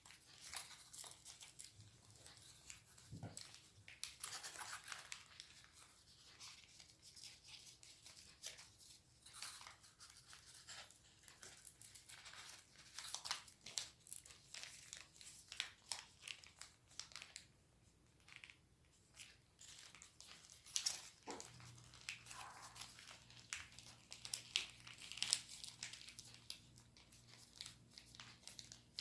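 Origami paper being folded and creased by hand: quiet, irregular crinkles, crackles and rustles of the sheet. A faint low hum comes in about three quarters of the way through.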